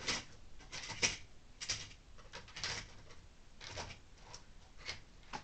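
Model railway rolling stock being handled: a series of irregular small plastic clicks and clatters, roughly one a second.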